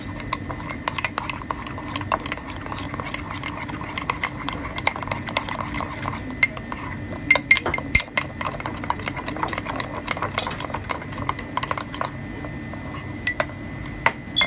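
A spoon stirring cake batter, clicking and clinking irregularly against the sides of the container many times.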